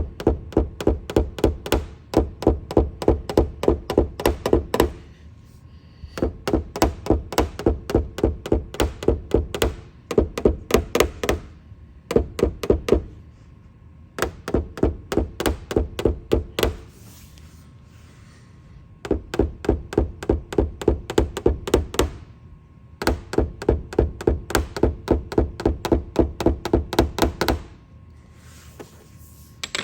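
Rapid light tapping on a car's roof panel with a dent-repair hammer and knockdown tool, about four to five taps a second, in bursts of a few seconds with short pauses. This is the tap-down step of glue-pull paintless dent repair, levelling the metal around the pulled hail dent.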